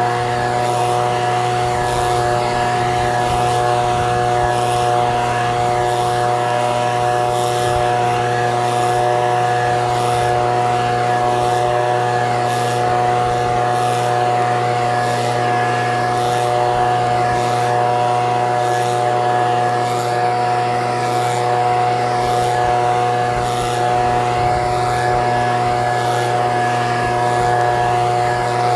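Echo PB-2620 handheld leaf blower's small two-stroke engine running steadily at a constant speed, with no revving.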